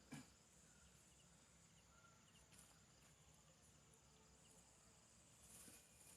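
Near silence with faint insects, likely crickets, chirring steadily at a high pitch, and a few faint ticks.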